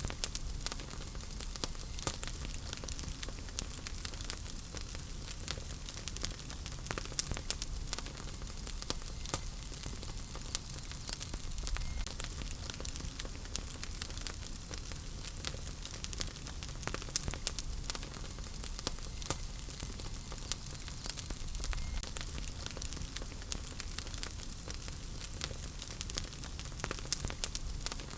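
Wood fire burning in a fireplace: a steady run of sharp crackles and pops over a low, even rumble of flames.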